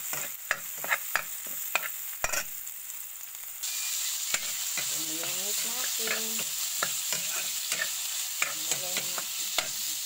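Chopped onion and garlic sizzling in oil in a metal pan while being stirred, the utensil tapping and scraping against the pan in many sharp clicks. About three and a half seconds in the sizzle becomes louder and steadier as pieces of meat fry in the pan, with the stirring clicks going on.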